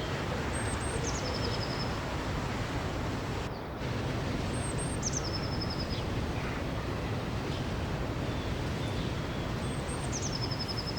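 Steady rushing of river or waterfall water, with a songbird repeating the same short high phrase three times: a high note, a quick drop, then a rapid trill.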